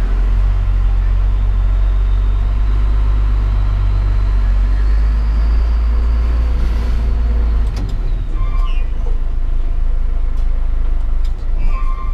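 Heavy diesel engine running with a deep, steady rumble that eases off about eight seconds in.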